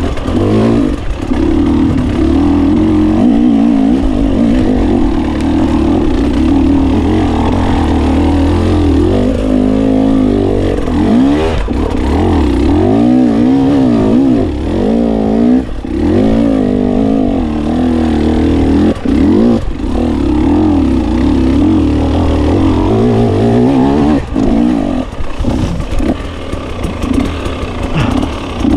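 GasGas 300 two-stroke enduro motorcycle engine being ridden, its pitch rising and falling again and again as the throttle is opened and closed, with a few brief knocks along the way.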